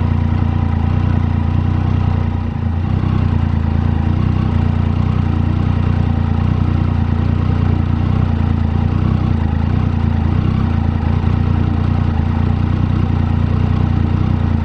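Triumph Tiger 800's three-cylinder engine running steadily at constant revs, with no revving up or down.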